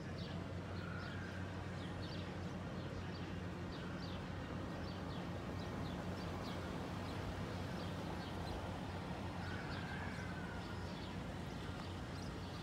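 Small birds chirping, many short quick calls scattered throughout, over a steady low hum and an even wash of outdoor background noise.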